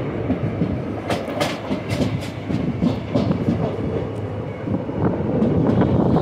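Indian Railways passenger coach running at speed, heard from an open coach doorway: a steady rumble of wheels on the rails with scattered sharp clicks, growing louder and steadier near the end.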